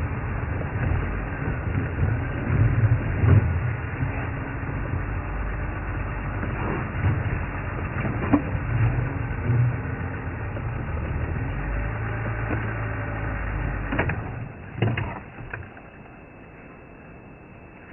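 Low rumble of a safari vehicle's engine, with scattered sharp cracks and snaps of wood, likely elephants breaking branches as they feed. The rumble drops away about fifteen seconds in, leaving it much quieter.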